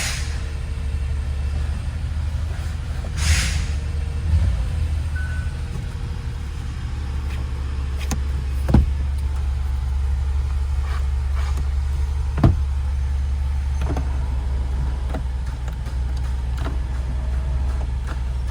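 A vehicle engine running at a steady idle, a low even rumble, with a couple of sharp clicks about nine and twelve seconds in.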